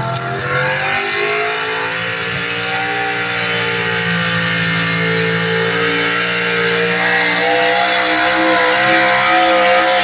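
A pulling vehicle's engine running hard at high revs under load during a pull. Its pitch rises over the first couple of seconds, then holds steady while it gets gradually louder.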